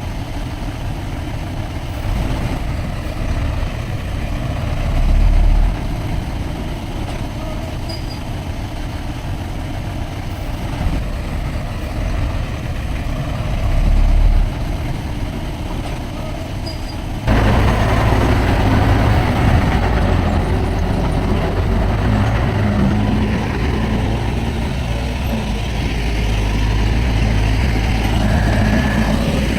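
Heavy diesel earthmoving machinery running: a steady low engine rumble with two brief surges, then a sudden jump to a louder, fuller engine sound a little past halfway.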